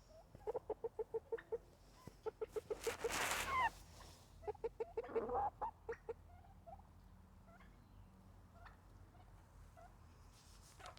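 Domestic turkey gobbling: three quick rattling runs of notes in the first six seconds, the middle one loudest, followed by faint scattered chirps and clucks from the flock.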